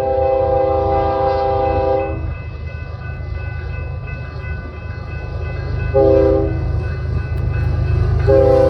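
Diesel locomotive's multi-chime air horn sounding a chord: a long blast that ends about two seconds in, a short blast about six seconds in, then another long blast starting near the end, the pattern of the grade-crossing warning signal. A steady low rumble of the train runs underneath.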